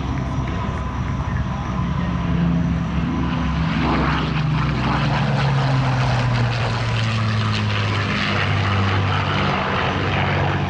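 de Havilland Mosquito's twin Packard Merlin V12 engines in a fast low pass, the engine note dropping in pitch as the aircraft goes by about four seconds in and then climbs away.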